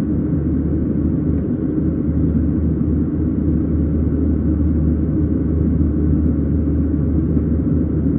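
Steady low cabin roar of a Boeing 737-700 climbing after takeoff, heard from a passenger seat: the CFM56-7B engines and the airflow over the fuselage make a constant deep rumble.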